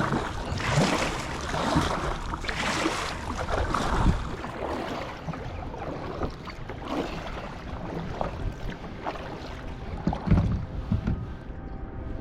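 A kayak being paddled through the water: splashing surges about once a second at first, then a steadier wash with a few low knocks near the end, and some wind on the microphone.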